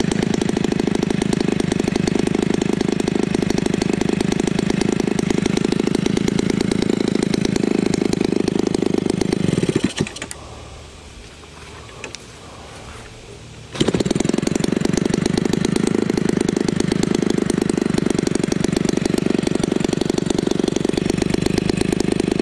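Homelite 30cc two-stroke leaf-blower engine, converted for an RC airplane, running hard with a propeller. It stops abruptly about ten seconds in, and about four seconds later it catches again at once and runs on steadily.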